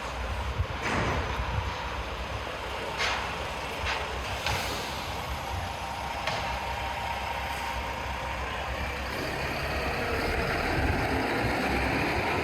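City street traffic with heavy vehicles running close by. A few short sharp clacks or hisses come in the first half, and the traffic gets a little louder near the end.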